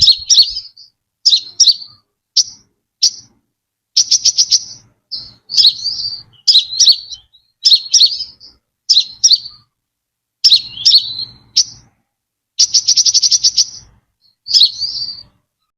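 Brown-throated sunbird singing: short, high chirping phrases repeated every second or so, broken by two fast, rattling trills, one about four seconds in and a longer one near the end.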